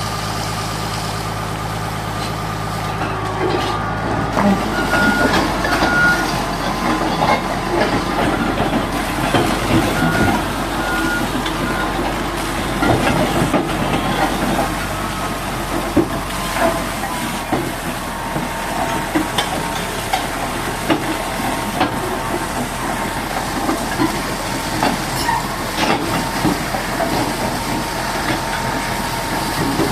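An engine idling steadily, then from about four seconds in a high-pressure water jet hissing and spattering, used to wash mud off the bulldozer.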